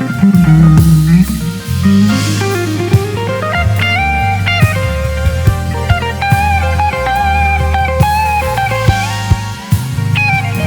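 Live band playing an instrumental jazz-funk tune: drums keep time under a sliding electric bass line and a melody of held notes on keys.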